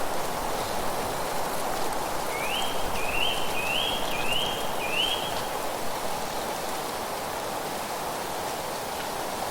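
Steady rustling hiss of wind and leaves. About two seconds in, a songbird gives five quick calls in a row, each note rising and then levelling off.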